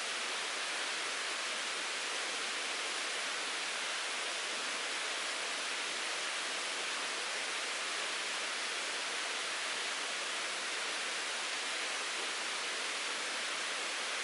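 Mountain stream flowing: a steady, unbroken rushing hiss of moving water.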